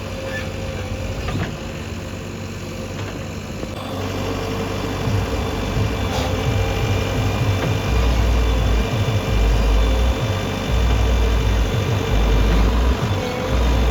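Diesel engine of a JCB 3DX backhoe loader running. It gets louder from about four seconds in, and in the second half a low throbbing swells and fades about every second and a half.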